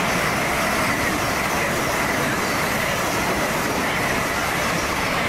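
LNER Azuma intercity train running past at close range: a steady, loud rush of wheels on rail with a faint high whine.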